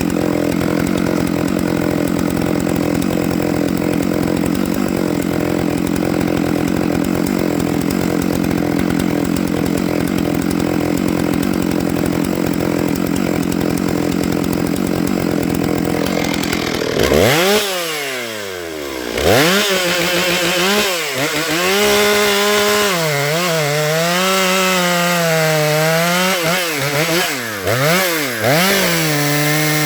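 Stihl MS 661 two-stroke chainsaw cutting into a pine log at steady full throttle. About seventeen seconds in the revs drop sharply and climb back, and from then on the engine speed rises and falls repeatedly as the throttle is worked.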